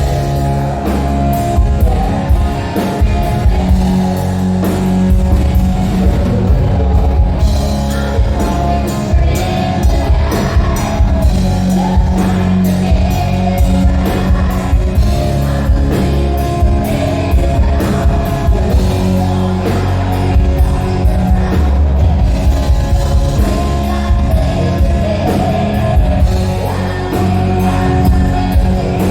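Hard rock music with electric guitar, a drum kit keeping a steady beat, and a singing voice.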